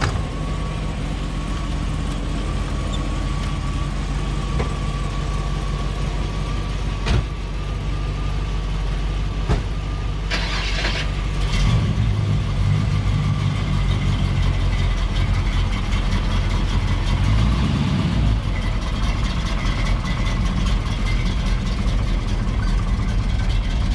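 Late-1950s Chevrolet Impala engine idling, getting louder about halfway through with a brief rise in revs a few seconds later. A short hiss is heard around ten seconds in.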